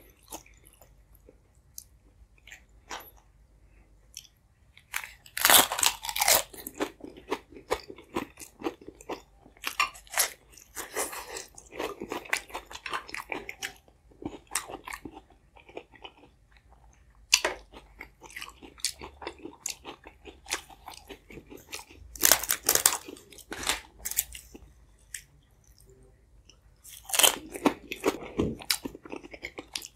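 Close-miked eating: crunchy bites and chewing, in loud bursts every few seconds with quieter pauses of soft chewing between.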